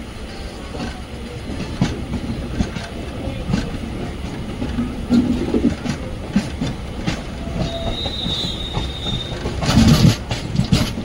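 Indian Railways Intercity Express passenger train running along the track: a steady low rumble with wheels knocking and clacking over the rails. A brief high whine comes about eight seconds in, and a louder clatter comes near the end.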